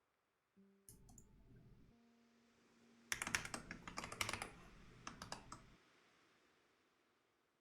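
Typing on a computer keyboard: a few key clicks about a second in, then a quick run of keystrokes lasting a couple of seconds.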